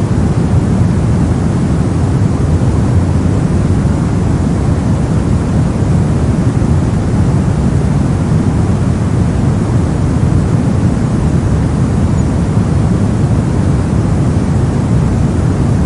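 Steady brown noise: a constant random hiss with its energy heavily weighted to the low end, giving a deep, even rumble with no changes or events.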